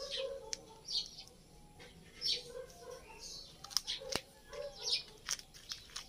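Small birds chirping in short, high calls repeated every second or so, over a lower, pulsing bird call, with a few sharp clicks around the middle.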